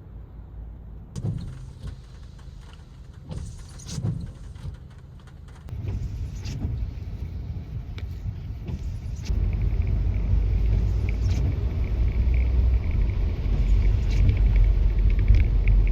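Car road noise heard from inside the cabin while driving: a low rumble that grows louder in two steps, about six and about nine seconds in, with a few light knocks and rattles in the first few seconds.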